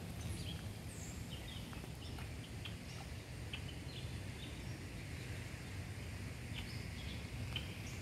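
Wild birds chirping, with many short, scattered calls and a few brief whistles, over a low steady rumble.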